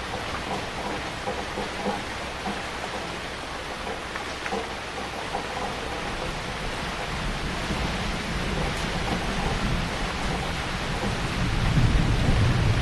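Heavy rain falling steadily, with a low rumble of thunder building over the last few seconds and becoming the loudest sound near the end.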